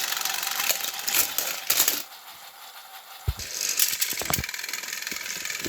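Battery-powered toy train motors whirring, their plastic gears rattling. The run breaks off about two seconds in, and a few sharp clacks follow before the rattling starts up again.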